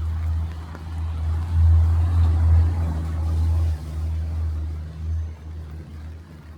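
A motor vehicle's engine rumbling close by, louder for a couple of seconds and then fading away as it passes, over faint rain.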